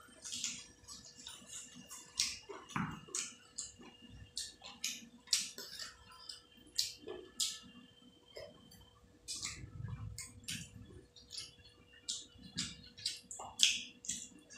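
Close-up wet chewing and lip-smacking of a mouthful of rice and curry eaten by hand: a string of short, irregular mouth clicks and smacks, several a second.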